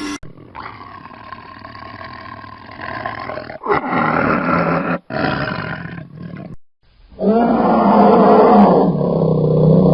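Big cat roaring and growling in several separate calls: a quieter stretch, then two shorter louder calls, then the loudest and longest roar starting about seven seconds in.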